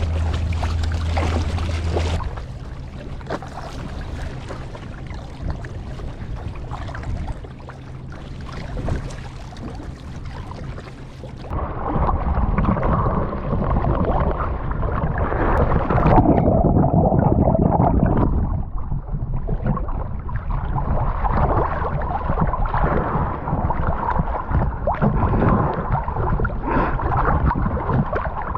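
Lake water splashing and gurgling close to the microphone during open-water swimming. A steady low hum stops about two seconds in, and about eleven seconds in the water sound gets louder and more muffled.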